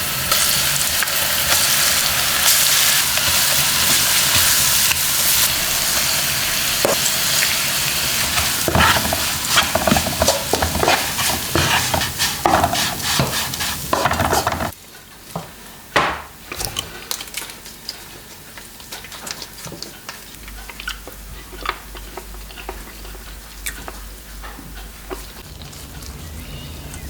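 Food sizzling loudly as it is stir-fried in a cast-iron cauldron (gamasot), with the clicks and scrapes of a utensil stirring it. About halfway through, the sizzling cuts off suddenly, leaving a much quieter stretch with scattered light clicks.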